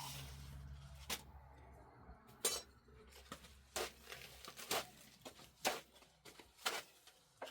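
A series of sharp clinks and knocks of hard objects, roughly one a second.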